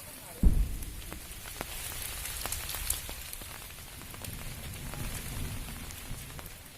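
Rain falling steadily, with close drips ticking over a low rumble. A single loud, low thump comes about half a second in.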